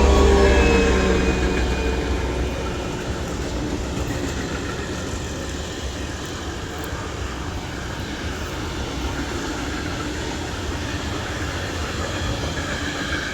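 A train passing close by: its loudest moment is right at the start, where a pitched hum drops in pitch as the locomotive goes by. After that the cars roll past with a steady rolling rumble.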